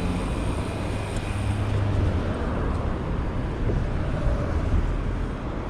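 Steady low rumble of wind and road traffic noise while cycling along a town street.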